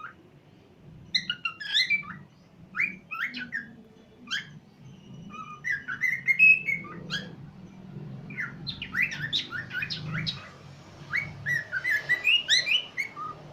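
Pet cockatiel whistling and chirping, with short quick notes in clusters and brief pauses between them.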